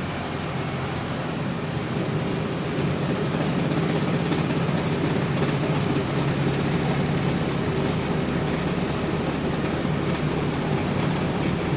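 Wright StreetDeck double-decker bus heard from inside while driving: a steady low engine drone, road noise and a thin high whine, growing a little louder about three seconds in.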